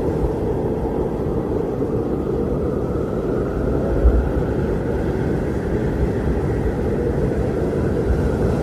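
Strong wind blowing, a steady low rush of noise with a brief stronger low gust about four seconds in.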